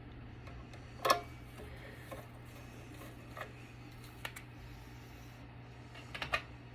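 Sharp metal clinks of a screwdriver against a battery backup's screws and casing: one loud clink about a second in, a few faint ticks, and a quick cluster of clicks near the end, over a steady low hum.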